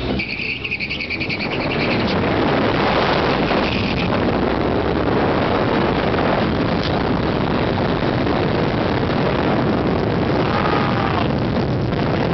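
Car engines running hard as a Dodge SRT-4 and an Audi RS4 race down a drag strip, mixed with rushing wind noise on the microphone. The sound gets louder about two seconds in and stays loud.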